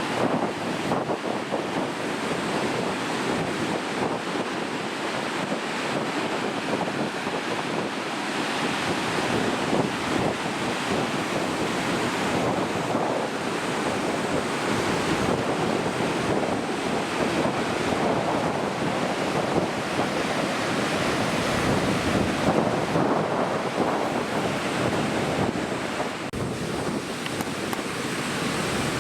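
Large typhoon-driven ocean waves breaking and surging in a steady rush, with strong wind buffeting the microphone.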